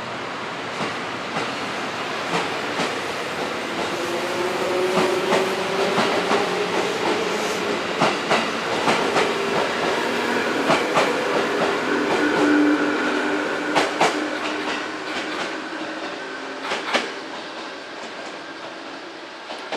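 JR 213 series electric train pulling out of the station and passing close by: a motor hum under repeated wheel clacks over the rail joints, loudest a little past the middle, then fading as the train moves away.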